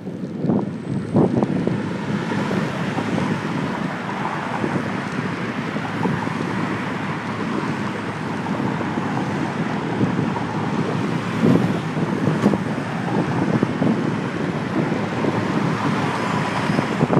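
Steady rush of wind and road noise on a handlebar-mounted phone's microphone while cycling, with city traffic around and a few thumps from bumps partway through.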